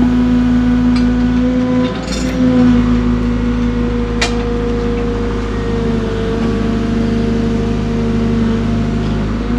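Diesel engine of a compact construction machine running steadily, its pitch dipping briefly about two seconds in. There is a metallic clink about two seconds in and a sharp click about four seconds in.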